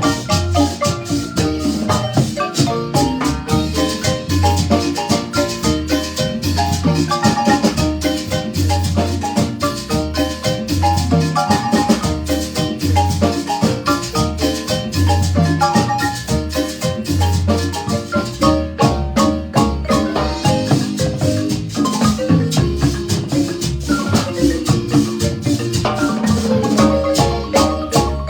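Marimba band playing a lively piece: rapid runs of mallet notes over a regular low bass pulse.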